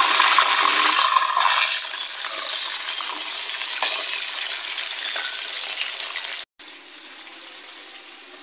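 Raw chicken pieces sizzling as they go into hot mustard oil and fried onions in an aluminium pot, stirred with a wooden spoon. The sizzle is loudest for about the first two seconds, then settles to a quieter steady frying hiss, broken off briefly about six and a half seconds in.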